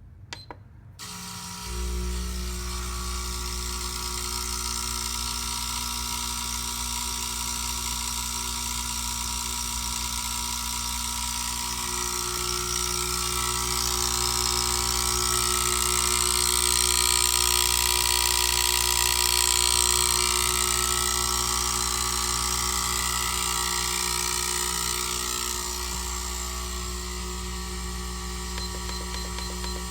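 TreadDesk treadmill desk starting up after a click and running with a loud, steady buzz made of several held tones over a low hum; it grows louder toward the middle and eases back near the end. The owner takes the buzzing to come from the circuit board and voltage adapter side rather than the motor, and suspects a defective voltage adapter.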